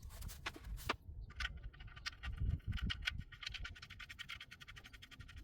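Ratchet with a 17mm socket clicking rapidly and evenly as the oil drain plug is run back in and tightened, after a few separate clicks at the start.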